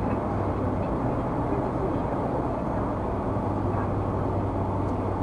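Steady road and engine noise of a car travelling at freeway speed, heard from inside the cabin through the dashcam, with a constant low hum beneath the tyre rush.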